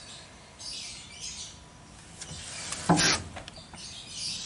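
Birds chirping in the background, with a short, louder noise about three seconds in.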